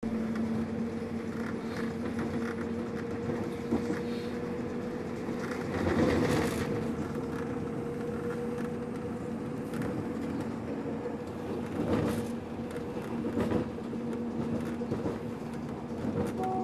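Diesel passenger train running at speed, heard from on board: a steady rumble of wheels and engine with a held two-note hum, and brief louder rushes about six and twelve seconds in.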